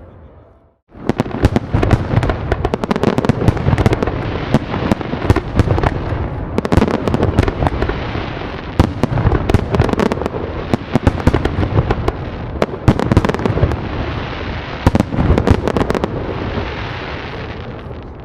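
Fireworks going off in a dense barrage of rapid crackles and bangs. It starts suddenly about a second in, after a brief silence, and thins out and fades near the end.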